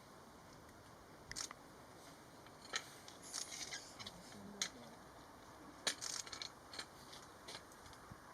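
Camera shutters clicking, some singly and some in short rapid bursts, scattered over faint background hiss.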